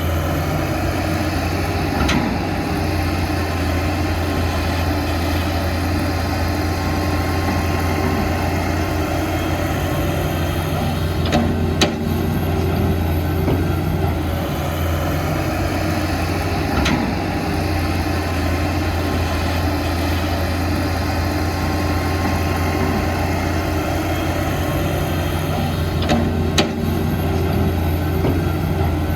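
Heavy diesel engine of construction machinery running steadily, with four short sharp knocks spread through.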